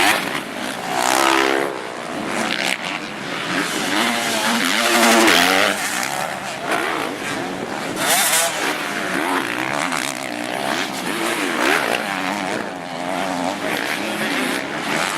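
Several motocross bike engines racing, revving up and down as the bikes pass with the throttle opening and closing, their pitches overlapping.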